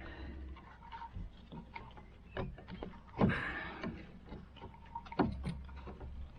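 Clicks and knocks of a flat screwdriver and hands working an old diesel fuel filter out of its plastic housing, with two louder knocks, about three and five seconds in.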